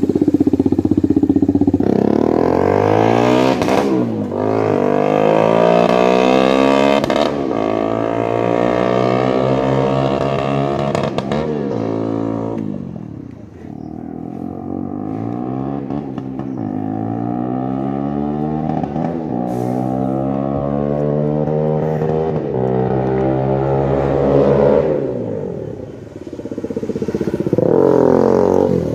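Bajaj Dominar 250's single-cylinder engine running with its exhaust removed, loud and unmuffled, revved up and down in long sweeps. It eases off briefly about halfway and again near the end.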